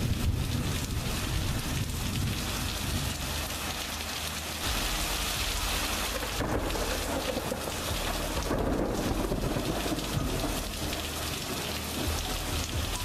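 Heavy rain pouring onto a concrete driveway, a steady hiss with a low rumble underneath.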